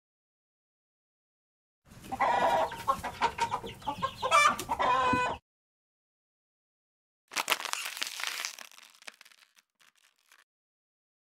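An animal call, pitched and wavering, lasting about three and a half seconds and cutting off abruptly. A couple of seconds later comes a short hissing burst that fades away over about two seconds.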